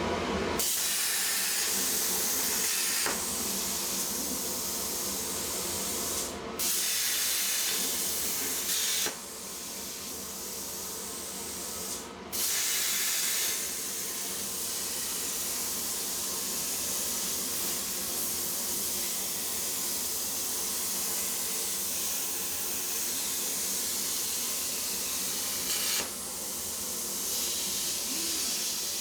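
CNC plasma table cutting steel plate: the steady, loud hiss of the plasma arc and its air stream, stopping briefly a few times in the first half as the torch moves between cuts.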